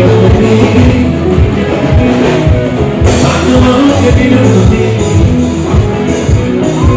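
Loud live band music: a singer over electric guitar and a drum kit.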